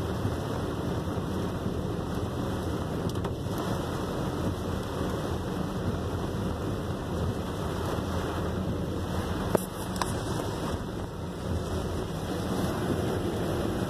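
Heavy rain heard from inside a moving vehicle: a steady rush of rain and road noise. A couple of sharp clicks come about two-thirds of the way through.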